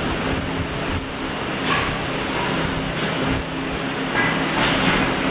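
Electric arc welding at work: the steady hiss and crackle of welding arcs, with brighter surges about two and three seconds in and near the end, over the low hum of welding transformers.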